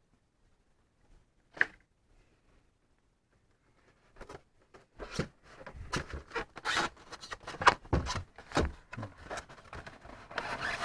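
Unboxing handling noises: a single sharp click about a second and a half in, then from about five seconds on a dense, irregular run of rustling, crinkling and small knocks as packaging and foam model parts are handled.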